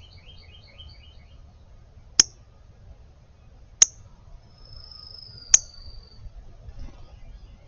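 A small bird's sharp chip calls, three loud single notes spaced about a second and a half apart, with a thin, drawn-out whistle between the second and third.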